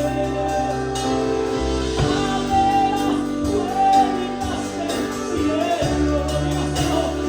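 Pentecostal worship chorus: singing over a band with sustained keyboard chords and bass, the chords changing about two seconds in and again near six seconds.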